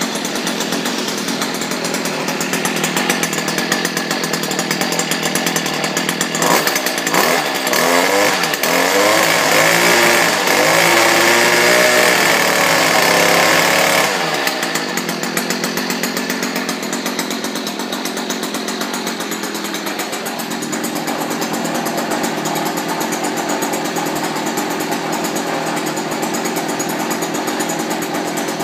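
Stihl KM 56 RC KombiMotor's small two-stroke engine running after a cold start, idling, then throttled up from about six seconds in, its pitch rising and falling for several seconds, and dropping back to idle at about fourteen seconds.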